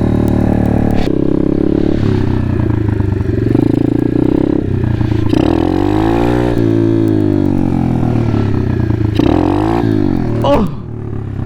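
Apollo pit bike's engine running hard under the rider, revving up and dropping back twice as the throttle is worked.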